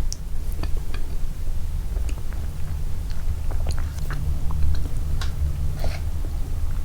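Close-miked chewing and mouth sounds: scattered wet smacks and clicks of food being chewed, over a steady low rumble.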